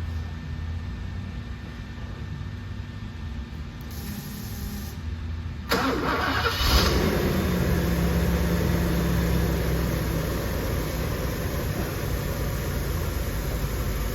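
The 5.6-litre V8 of a 1988 Mercedes 560SL is cold-started after sitting for a week. A few seconds in, it cranks and catches with a brief flare of revs, then settles into a steady cold idle.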